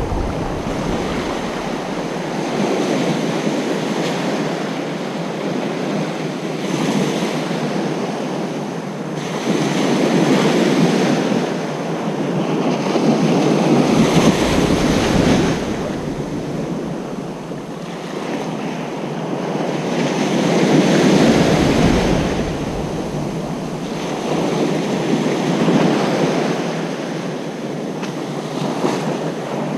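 Ocean surf washing onto a beach: a steady rush of breaking waves that swells and eases every few seconds as each wave comes in, with a deeper rumble under the two biggest swells.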